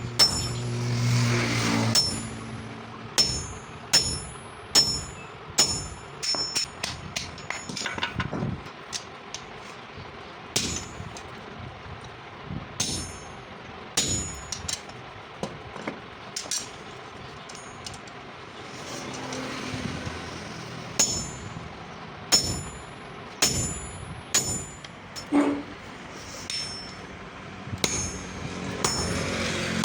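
Hammer blows on steel over an anvil, each strike leaving a short high ring, coming irregularly and sometimes in quick runs. A low hum sounds briefly near the start.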